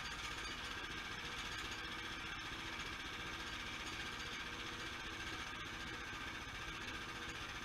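Sawmill's engine running steadily at an even pitch.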